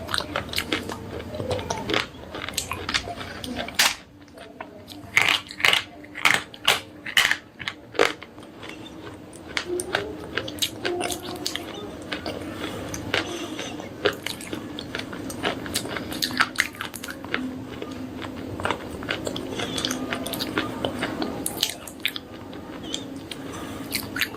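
Slate pencils being bitten and chewed close to the microphone: a run of sharp, crunchy snaps, loudest about five to eight seconds in, followed by softer crunching as the pieces are chewed.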